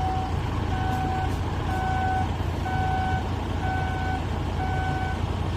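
A heavy vehicle's reversing alarm beeps steadily, about once a second, each beep about half a second long, over the low, steady running of its engine.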